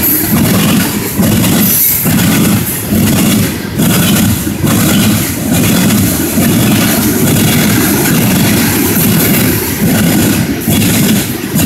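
Loaded CSX coal hopper cars rolling by, their steel wheels banging over the railroad diamond crossing in a steady run of heavy, rhythmic clacks, with wheel and rail noise between them.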